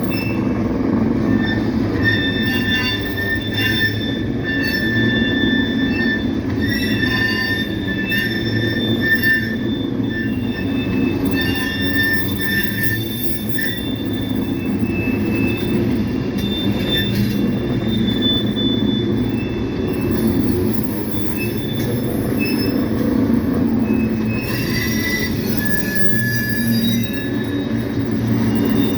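Loaded coal train rolling by: a steady rumble of wheels on rail with high-pitched wheel squeal that comes and goes.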